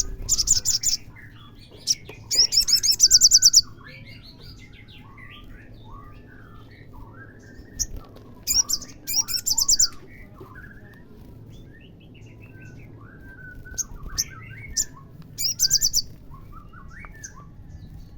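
Olive-backed sunbird song: a loud, high, rapid trill given three times, each about a second long, over softer chirping and twittering.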